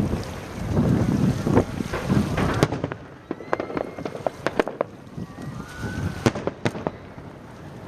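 Aerial fireworks exploding. Densely overlapping booming bursts fill the first three seconds, followed by a string of separate sharp bangs.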